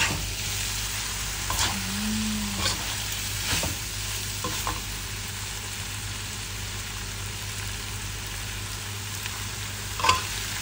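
Stir-fry of glass noodles, pork belly and bamboo shoots sizzling steadily in a metal wok. A spatula now and then knocks and scrapes against the pan.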